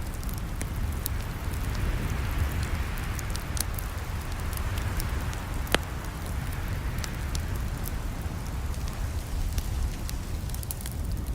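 Campfire crackling: a steady low rumble and hiss of burning wood, with frequent sharp pops and snaps, one louder pop about halfway through.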